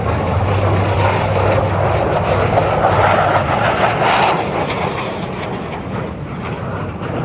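Blue Angels F/A-18 Super Hornet jet noise of a flypast: a rushing roar that swells to its loudest about three to four seconds in, then fades.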